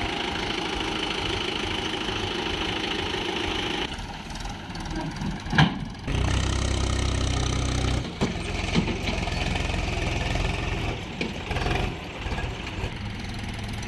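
Tractor engine running, changing in load: steady at first, then a sharp knock about five seconds in, followed by a heavier low rumble for about two seconds near the middle.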